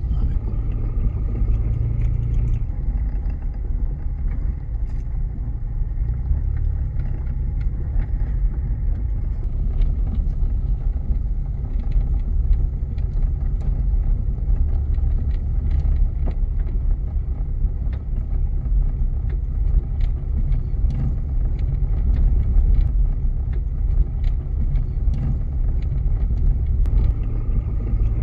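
A motor vehicle driving: a steady low engine and road rumble with scattered small clicks and ticks throughout.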